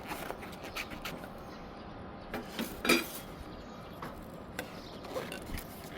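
Scattered light clicks and metallic clinks from handling and fitting parts of a window insect screen, with one louder knock about three seconds in.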